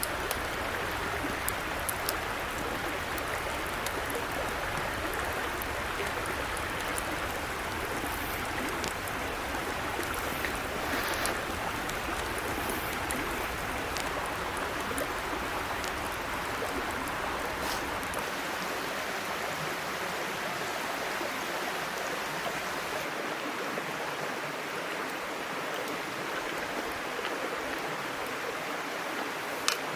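Small mountain stream flowing, a steady babbling rush of water, with scattered faint ticks. The low rumble under the water drops away about two-thirds of the way through.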